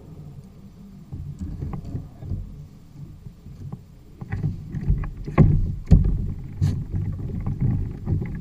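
Water sloshing and knocking against a Hobie fishing kayak's hull while it moves along trolling, a low uneven rumble with a few louder thumps about five and a half and six seconds in.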